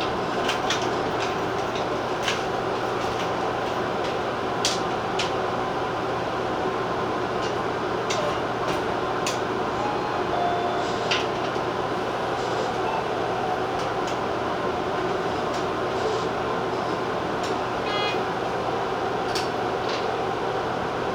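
Steady hum of a Tobu TJ Liner train with a constant low drone and scattered light clicks and ticks, including a short rapid rattle of ticks near the end.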